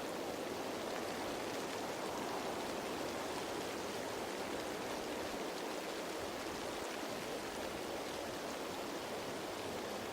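Steady rain falling on leaves: an even, unbroken hiss of many drops, with no single drop standing out.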